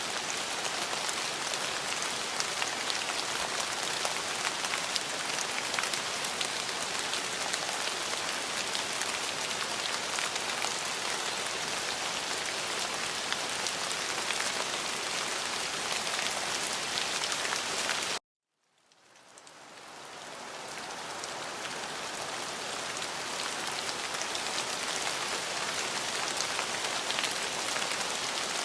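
Steady rain falling, an even hiss with many fine drop ticks. About 18 seconds in it cuts out abruptly to silence for about half a second, then fades back in over a couple of seconds: a loop splice in the recording.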